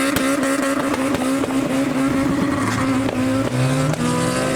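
Proton Jumbuck ute with a Mitsubishi Evo III turbo four-cylinder engine revving, noisy, holding a high, steady engine note. About three seconds in, a lower engine note rises beneath it.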